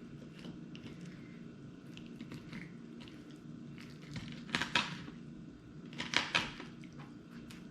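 A knife working through a cleaned bluegill: two short clusters of sharp crunching cuts, one about halfway through and another about a second and a half later, over a faint steady hum.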